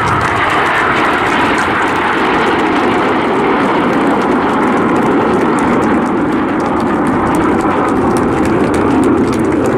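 Loud, steady jet noise from the Red Arrows' formation of BAE Hawk T1 jets, with Rolls-Royce Turbomeca Adour turbofan engines, flying past.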